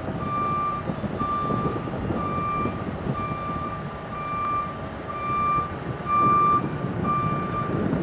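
JLG lift's motion alarm beeping steadily, about once a second, over a low rumble of the running machine.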